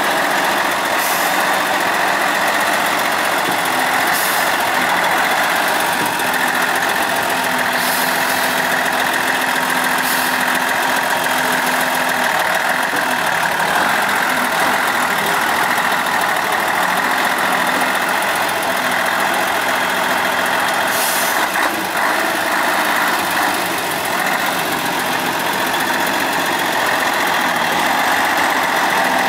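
Praga V3S 6x6 truck's diesel engine running steadily, its note shifting a few times as the revs change. Several short hisses come in between.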